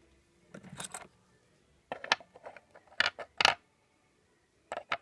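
Small metal parts of a cut-out driveshaft universal joint, the cross and its bearing cups, clinking and knocking together as they are handled: a few separate clatters, the sharpest about three seconds in.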